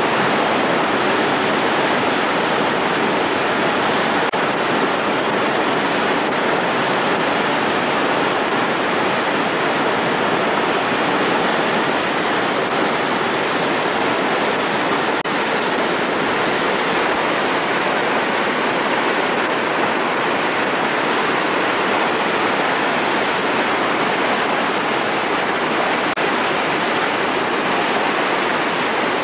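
Mena Creek running high with floodwater, a steady rush of water.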